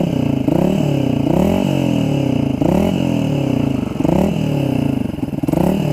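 Yamaha Xabre's 155 cc single-cylinder engine revved in about six quick throttle blips, each rising and falling back, through a Tridente F22 carbon exhaust set to its quietest silent mode with the valve closed.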